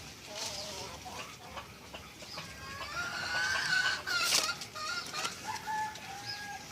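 Chickens clucking, with one long drawn-out call in the middle and a shorter lower call near the end.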